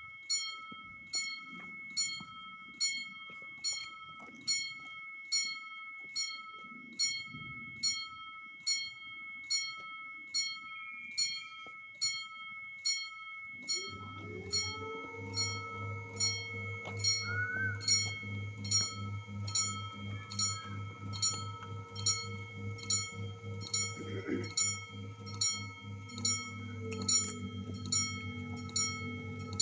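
Level-crossing warning bell ringing in a steady, even series of dings, a bit under two strikes a second. About halfway through a train arrives and passes, adding a strong steady low hum and rumble beneath the bell.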